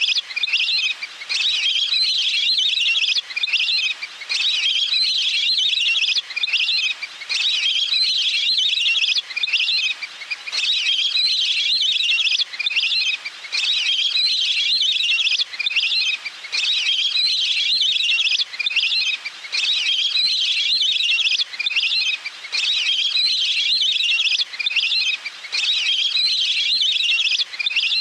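Recorded waterfowl calls, high chattering whistles repeated over and over in phrases of a second or two with brief pauses between them: a call track meant to lure waterfowl in.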